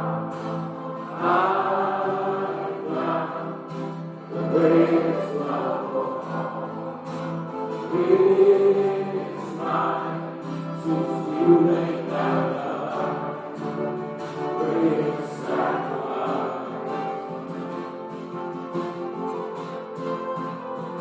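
A congregation singing a hymn with instrumental accompaniment.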